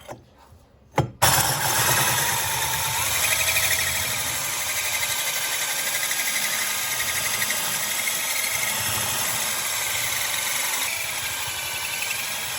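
Electric power tool motor switching on about a second in and running steadily under load, its whine rising slightly a couple of seconds later.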